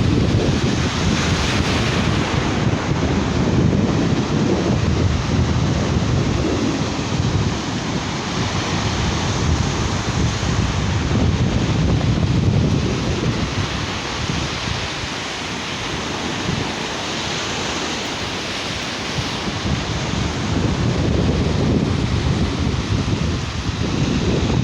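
Sea surf washing onto a beach, with wind buffeting the microphone in low rumbling gusts; the noise swells and eases a little about halfway through.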